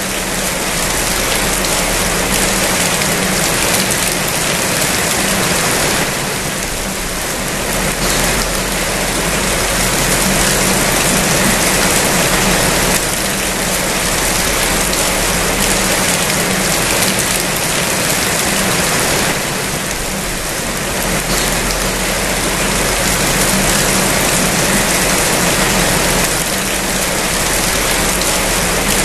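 Steady rain falling, a dense even hiss that eases a little twice.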